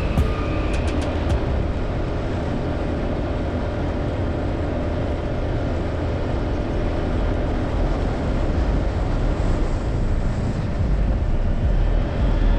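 Motorbike on the move: steady engine and riding noise, heaviest in the low rumble, holding at an even level throughout.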